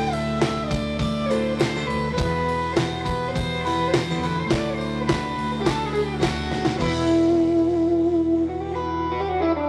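Live country-rock band playing the instrumental end of a song on drum kit and electric guitar. About seven seconds in, the drums stop and a held guitar chord rings out.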